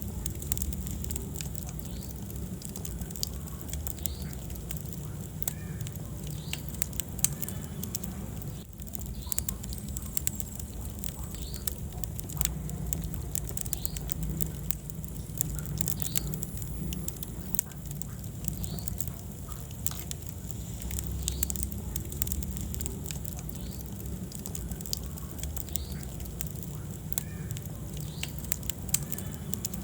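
Wood fire in a fireplace crackling, with frequent sharp pops and snaps over a low steady rumble of burning logs; one louder pop about seven seconds in.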